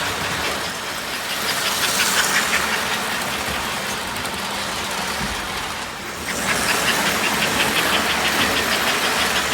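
American Flyer S-gauge model train running on the layout track: a steady rumble with quick, evenly spaced clicking. It grows louder, as if passing close, about two seconds in and again from about six and a half seconds in.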